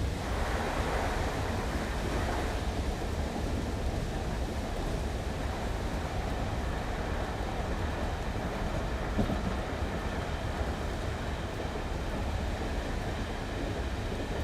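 Railway station ambience with diesel trains: a steady low rumble under an even wash of noise, with one sharp clank about nine seconds in.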